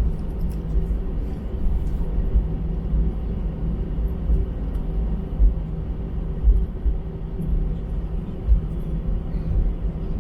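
Steady low rumble and engine hum inside an Airbus A320 cabin as the airliner taxis after landing, with a few louder low bumps in the second half.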